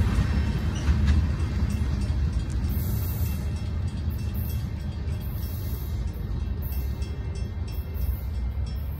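Train rumbling past on the rails, a steady low rumble that slowly fades as it moves away.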